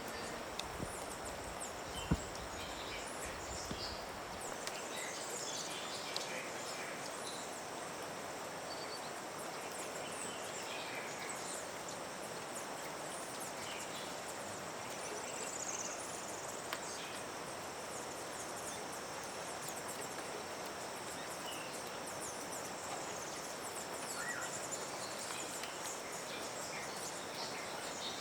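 Rural outdoor ambience: a steady high-pitched insect drone under a steady background hiss, with many short bird chirps scattered throughout, and one sharp knock about two seconds in.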